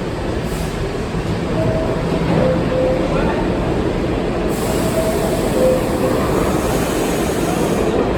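R68 subway train running, heard from on board: a steady rumble of wheels and motors, with a few short faint tones.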